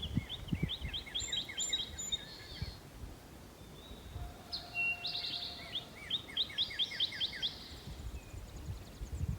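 A songbird singing two phrases, each a fast series of short repeated notes: the first at the start, the second beginning about halfway through and lasting about three seconds. Low, muffled thumps sound underneath.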